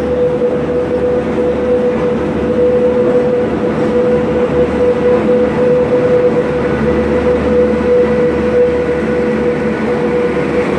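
Indian Railways WAP-5 electric locomotive hauling a double-decker passenger train past along the platform. A steady running noise with a constant whine throughout.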